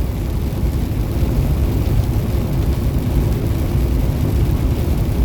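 Steady low rumble inside a Peterbilt semi-truck cab cruising at highway speed: engine and road noise.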